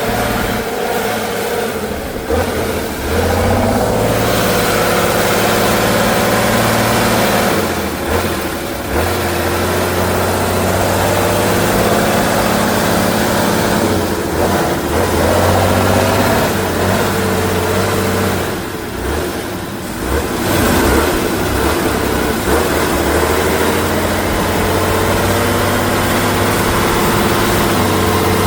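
Heavy off-road trial truck's engine working hard, its note rising and falling as the throttle is opened and eased, with a few brief drops in revs.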